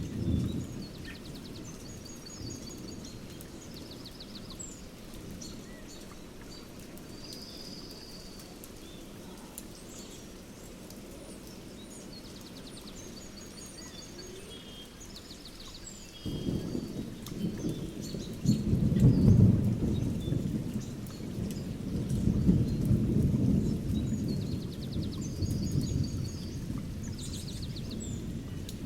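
Thunderstorm recording: steady rain with birds chirping throughout. A little past halfway, a long rumble of thunder sets in and rolls on, loudest a few seconds after it starts.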